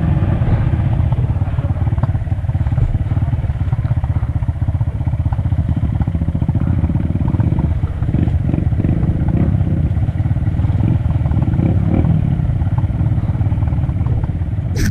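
Honda CRF230F trail bike's single-cylinder four-stroke engine running steadily, with a few light clattering knocks from the bike about halfway through.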